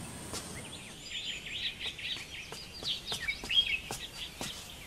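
Small birds chirping, a quick run of short high chirps that starts about a second in.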